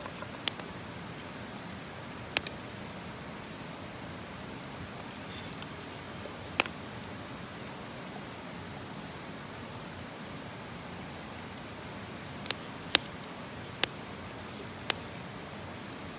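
Wood campfire burning: a steady hiss broken by sharp pops and cracks, seven in all, several of them close together near the end.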